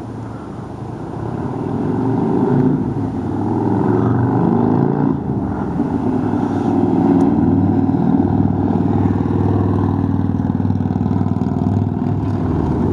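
Harley-Davidson Evolution 1340 cc V-twin engine running with a loud, deep exhaust note, rising in level over the first couple of seconds, dipping briefly about five seconds in, then pulling strongly again.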